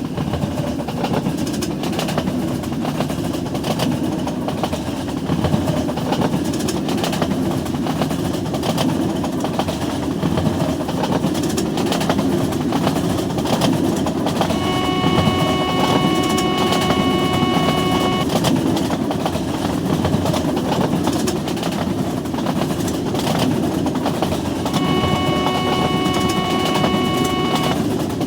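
Train running with a steady rumble and clatter of wheels on rails, its horn sounding two long blasts, one about halfway through and one near the end.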